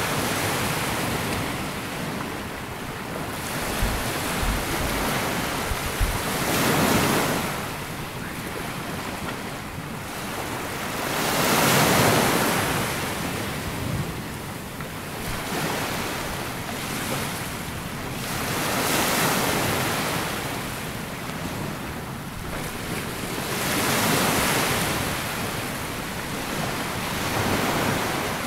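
Small sea waves breaking and washing up a sandy beach, the surf swelling and falling back about every five to seven seconds.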